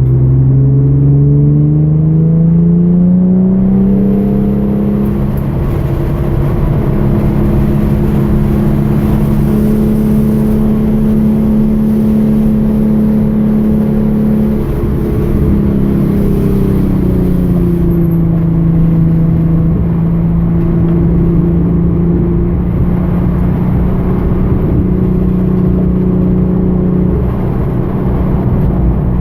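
2013 Hyundai Genesis Coupe's 3.8-litre V6 accelerating, its note rising in pitch over the first few seconds, then held at steady revs with a slight drop about halfway through. A high hiss runs over it for much of the first half.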